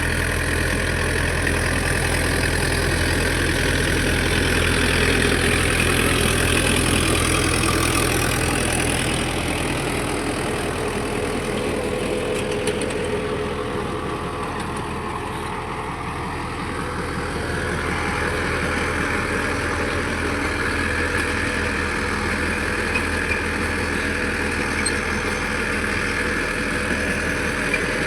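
Tractor engine running steadily while working a tractor-drawn cutter (rotary tiller) through the soil. It grows somewhat quieter about halfway through, then comes back up.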